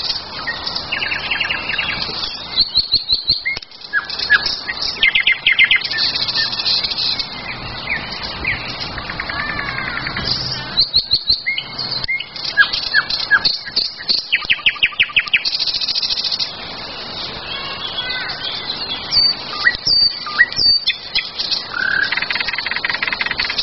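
Several songbirds singing at once: overlapping fast trills and short chirps from different birds, one after another throughout.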